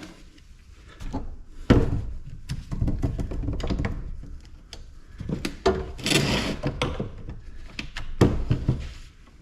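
Scattered knocks and clunks of scrap parts and tools being handled and set down, with a louder thunk a little under two seconds in and another near the end, and a brief rattling, scraping stretch past the middle.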